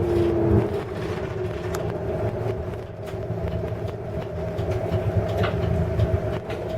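A Hino Blue Ribbon City hybrid bus running on its busway, heard inside the cabin: a low drive rumble with a steady whine, and occasional clicks and rattles.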